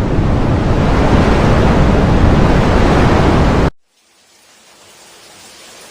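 Wind sound effect: a loud, steady rush of wind that cuts off suddenly a little over halfway through, followed by a faint hiss that slowly grows louder.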